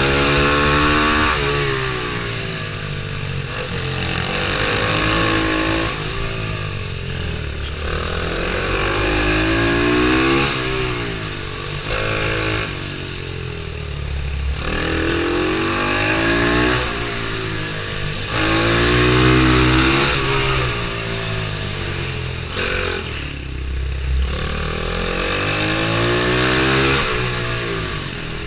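Pitbike engine revving up and falling back over and over, rising in pitch on each acceleration and dropping when the throttle is shut off, every few seconds, as the bike is ridden hard around a kart track.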